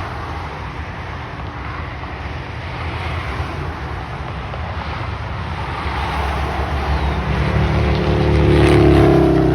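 Steady rush of traffic on an expressway. Near the end a vehicle passes close, and its engine hum and tyre noise swell to a peak and then ease off.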